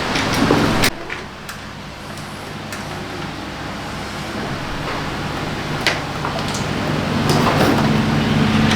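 SYM Attila scooter's four-stroke single-cylinder engine running. Its sound drops sharply about a second in, then slowly rises again, with a sharp click near six seconds.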